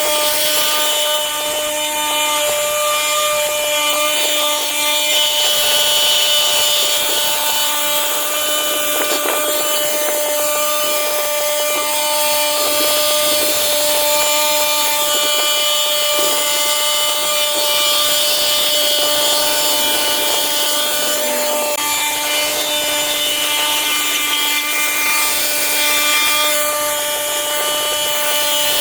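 A motorised garden power tool running at a steady high speed, with a constant whine and no change in pitch.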